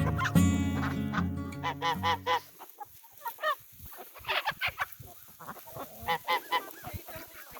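Acoustic guitar music fading out over the first two seconds or so, then geese honking in scattered clusters of several honks each, with short quieter gaps between them.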